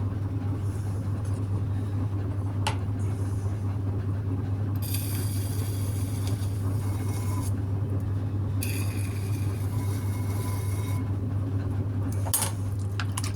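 Electric potter's wheel running steadily with a low motor hum while clay is shaped on it, with two stretches of higher hiss in the middle and a few sharp clicks.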